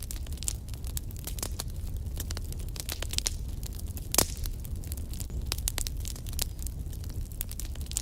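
Wood fire burning in a fireplace: irregular crackles and pops over a low rumble of the flames, with one louder pop a little past halfway.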